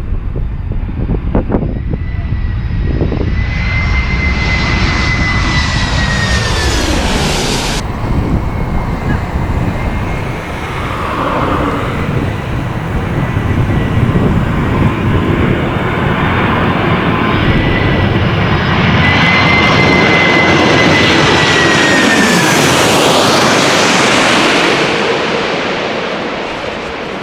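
Wide-body jet airliner passing low on landing, its engine whine sliding down in pitch as it goes by. This happens twice, with an abrupt cut about eight seconds in after the first pass. A heavy low rumble of wind on the microphone runs underneath.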